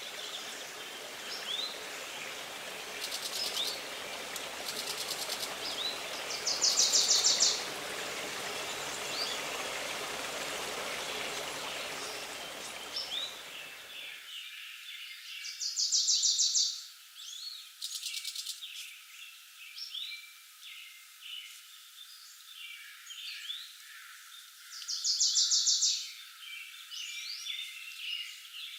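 Woodland birds chirping and singing, with one louder, high bird song phrase coming about every nine seconds, three times in all. A steady rushing background noise underneath stops abruptly about halfway through, leaving only the birds.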